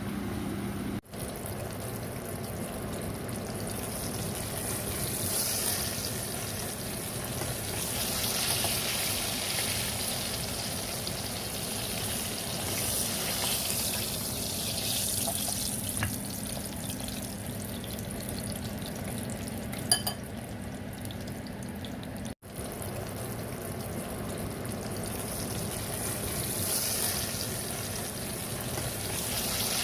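Chicken pieces sizzling as they fry in hot oil, a steady hiss. The sound cuts out for an instant twice, and there is a single sharp click about two-thirds of the way through.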